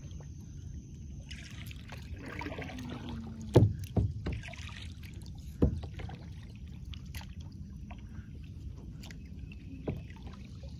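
A few sharp knocks on a kayak hull, the loudest about three and a half seconds in, over a steady low rumble.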